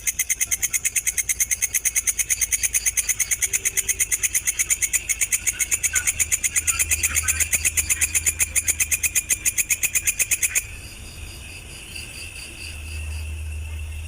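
Insects calling: a loud, rapid pulsed buzzing of about nine pulses a second cuts off suddenly about ten seconds in. Under it a steady high cricket trill runs on.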